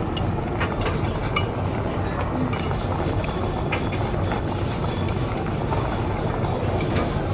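Steady low rumble of restaurant background noise, with scattered light clinks of utensils against dishes.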